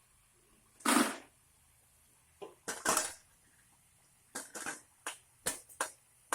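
Kitchen utensils and cookware clattering: a string of separate scrapes and knocks, the loudest about a second in, then several shorter ones in quick succession near the end.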